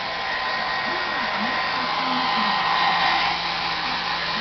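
Hair dryer blowing steadily, a rushing hiss with a faint whine in it. It grows louder a little past halfway, then eases back.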